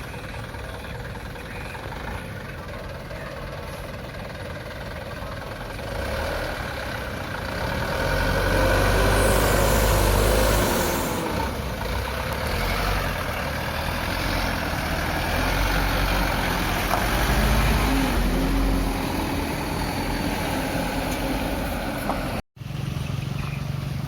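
Truck engine running, getting louder and revving up and down from about a third of the way in, with two rising-and-falling revs. It cuts out for an instant near the end.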